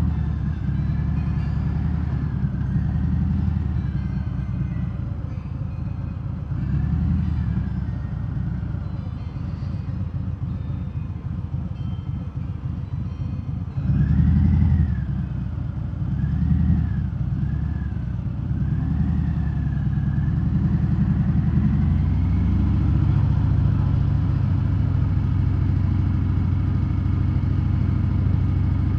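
V-twin engine of a 2019 Harley-Davidson Fat Bob with Vance & Hines Hi-Output slip-on mufflers, run without their quiet inserts, heard from inside the rider's helmet. The revs rise and fall several times as it accelerates and backs off, then settle into a steady cruise about three quarters of the way in.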